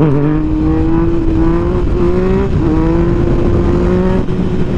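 Motorcycle engine running under way, its pitch holding steady apart from brief dips near the start and about two and a half seconds in, with heavy wind noise on the microphone.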